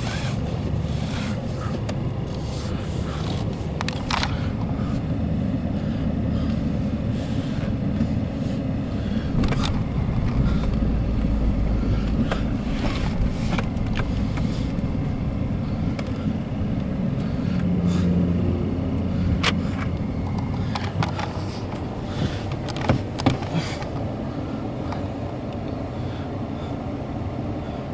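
Freight train rolling past, a steady low rumble with scattered clanks and clicks from the cars.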